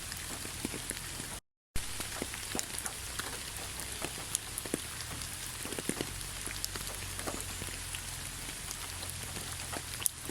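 Steady rain falling on a surface, with many separate drops ticking clearly over an even hiss. The sound cuts out completely for a split second about one and a half seconds in, then carries on unchanged.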